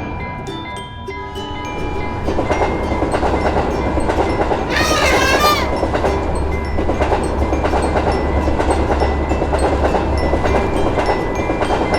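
A train passing a level crossing, its wheels clattering over a low rumble that builds about two seconds in. A level-crossing warning bell rings in a steady rhythm throughout. About five seconds in there is a brief horn blast that wavers in pitch.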